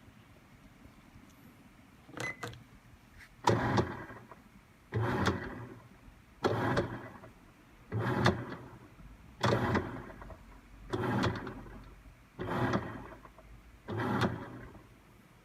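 Toshiba AW-42ML top-loading washing machine agitating, its motor driving the pulsator in short strokes: eight strokes, each starting sharply and fading over about a second, roughly one every one and a half seconds, after a couple of light clicks.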